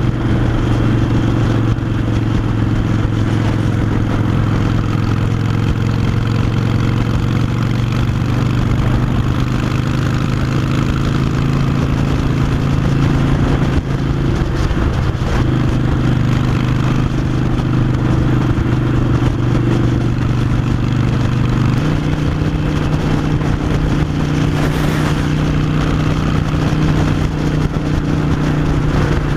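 Harley-Davidson Iron 883's air-cooled V-twin running through Vance & Hines Short Shots Staggered exhaust while the bike is ridden at a steady pace. The engine note steps up slightly about three-quarters of the way in.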